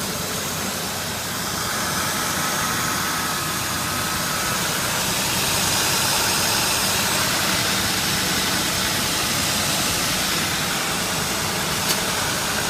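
A 2003 Ford Taurus's 3.0-litre DOHC 24-valve Duratec V6 idling steadily, with a single brief click near the end.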